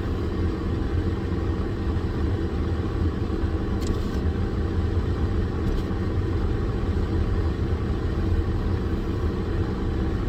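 Car engine idling, a steady low rumble, with a couple of faint ticks about four and six seconds in.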